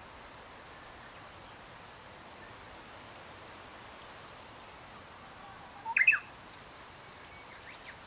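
A small songbird gives one short, sharp call rising in pitch about six seconds in, with a few faint chirps near the end, over the faint steady sound of a small stream.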